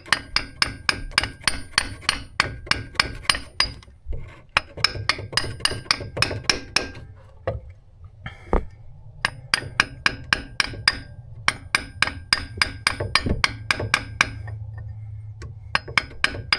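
A 2-pound mini sledgehammer tapping on metal in quick runs of about five blows a second, with short pauses between runs. It is driving a new transmission axle seal into its bore, and each tap gives a brief metallic ring.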